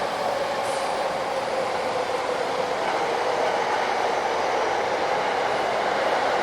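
Electric train running on the rails: a loud, steady running noise, strongest in a mid-pitched band, that grows slightly louder.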